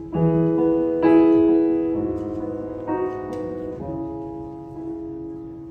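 Live concert music: slow held chords struck about once a second and left to ring out, the instrumental opening before the vocals come in.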